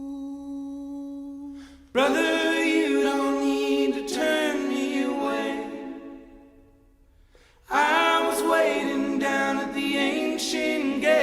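Soundtrack music: voices singing with little or no accompaniment, in two phrases with a brief near-silent pause in the middle.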